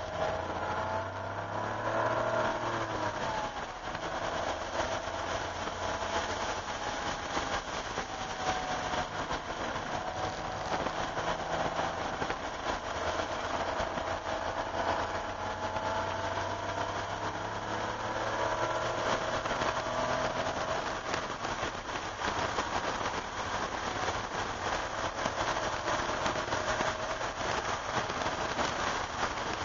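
1988 Porsche 911's air-cooled flat-six engine pulling hard, heard from inside the cabin, its pitch climbing and dropping back as it accelerates through the gears. A steady hiss of water spray and rain on the car runs underneath.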